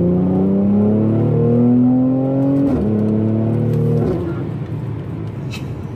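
Mercedes-AMG C43's M276 3.0-litre twin-turbo V6 under full throttle, heard from inside the cabin: revs climb steadily, drop sharply at a quick upshift about three seconds in, climb again, and fall away at a second upshift about four seconds in as the engine goes quieter.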